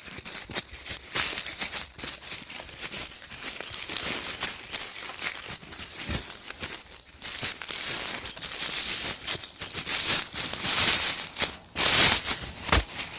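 Plastic bread bag crinkling and rustling while it is handled and pulled open, with many irregular crackles. The loudest burst comes near the end.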